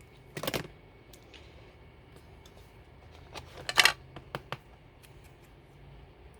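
Paper crafting at a desk: two short rustles of paper being handled, one about half a second in and one near four seconds, with a few light clicks and taps.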